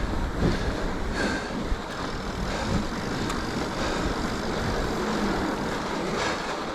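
Mountain bike riding over packed snow: a steady rumble of tyres and wind on the microphone, with a few sharp knocks and rattles from the bike.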